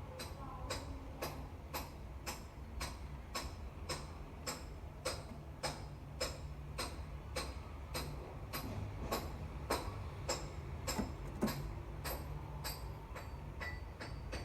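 Sharp taps repeating at an even pace, about two a second, over a steady low hum.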